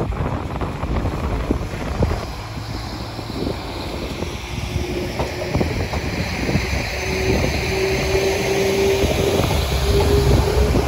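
A train approaching: a rumble and hiss grow steadily louder, and a steady whine comes in about halfway through and strengthens toward the end.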